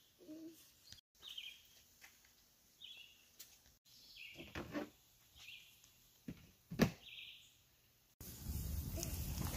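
Birds chirping sparsely in a quiet forest, with a few sharp ticks. About eight seconds in, a sudden switch to a louder, steady rushing noise.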